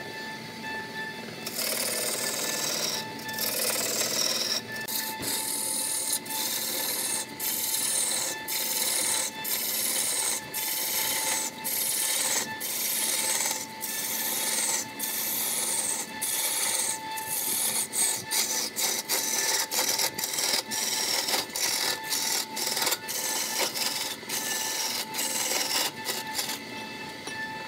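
A steel turning gouge cuts into a large wooden blank spinning on a wood lathe, making a rough, rasping shear broken by many brief gaps as the tool is lifted and set again. A faint steady whine from the running lathe sits beneath it. The cutting starts about a second and a half in and stops shortly before the end.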